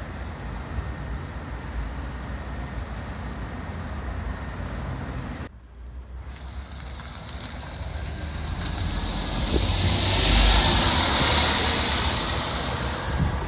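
Scania N230UD double-decker bus engine idling with a steady low rumble. About five and a half seconds in, the sound drops away briefly, and the bus then pulls away: the engine note and a hiss build to a peak about ten seconds in before easing.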